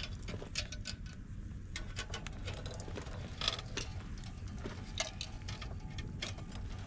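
Scattered light clicks and knocks, irregular and some louder than others, over a steady low rumble.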